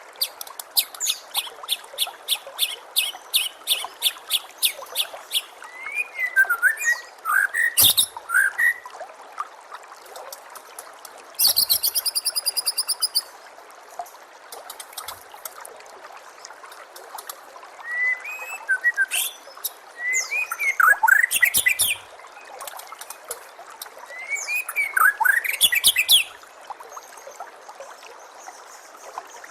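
White-rumped shama singing varied phrases: a fast run of repeated notes, then whistled phrases with rising and falling glides and a buzzy rattle, over a steady trickle of running water.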